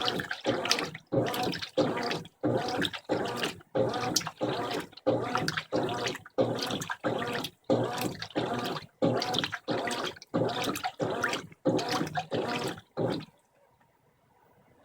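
Brastemp 15 kg top-loading washing machine agitating its load in water during the rinse, a rhythmic swish-and-slosh about twice a second. The strokes stop about 13 seconds in, as the agitation pauses.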